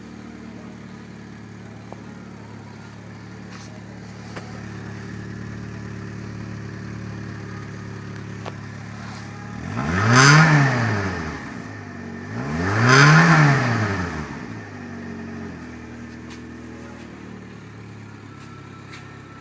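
Fiat Panda engine idling steadily, then revved twice, about ten and thirteen seconds in, each rev climbing and falling back to idle within about two seconds.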